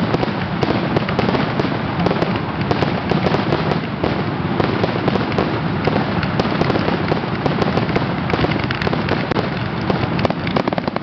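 Fireworks finale: many shells bursting and crackling at once, so the reports overlap in a continuous, loud rattle with no let-up.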